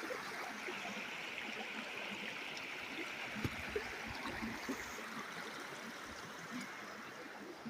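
River water rushing steadily, an even flowing sound that eases off slightly near the end.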